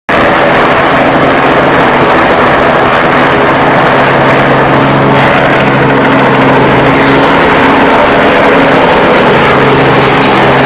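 Aircraft engine droning steadily and loudly under a dense rush of noise, as heard in a cockpit; its pitch dips slightly about seven seconds in.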